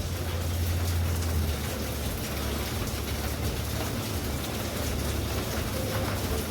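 Steady rain falling hard, an even hiss of drops with a low rumble underneath.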